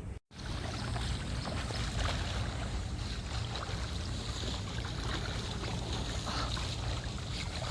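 Swimming pool water sloshing and splashing close to the microphone, with a steady low rumble. The sound drops out briefly just after the start.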